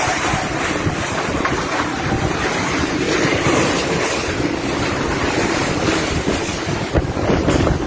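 Strong, gusty wind blowing and buffeting the microphone, with a brief knock about seven seconds in.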